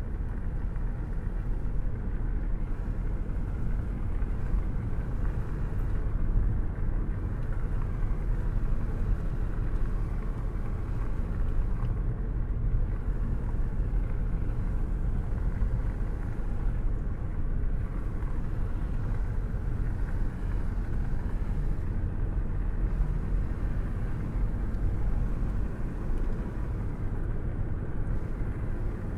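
Steady rainstorm noise with a deep, even rumble underneath and little high hiss, unbroken by any separate thunderclap.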